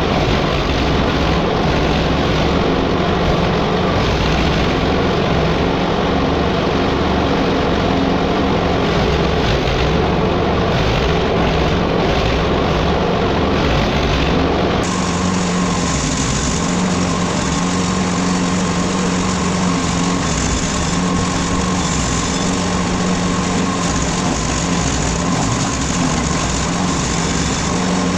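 Small petrol-engine wood chipper running steadily with an even engine hum, the sound changing abruptly about halfway through.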